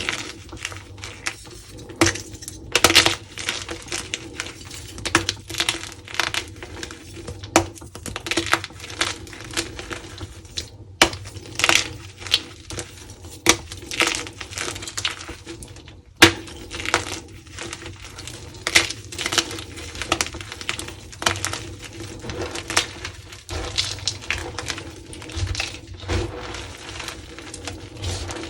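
Dyed gym chalk blocks being crushed and crumbled, giving a continuous run of sharp, crisp crunches and snaps, several every second, with brief pauses.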